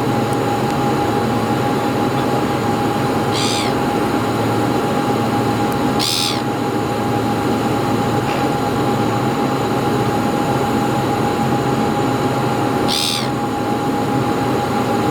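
Steady engine drone with a constant whining tone, broken by three short, high calls or squeaks: one a few seconds in, one about six seconds in and one near the end.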